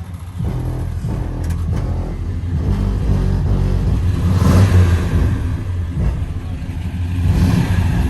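Car engine running and pulling, with a louder swell of engine and road noise about four and a half seconds in and a smaller one near the end.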